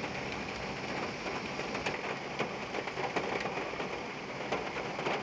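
Heavy rain falling during a thunderstorm: a steady hiss of rain with many sharp raindrop strikes scattered through it.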